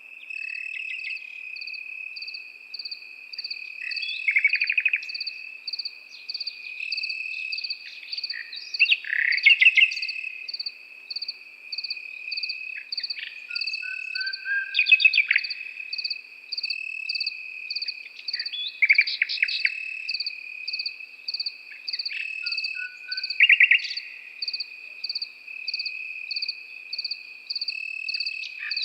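Nightingale singing in short phrases of rapid repeated notes every few seconds over a chorus of crickets: one continuous high trill and a steady, evenly pulsed chirp. The nightingale phrases are the loudest sounds.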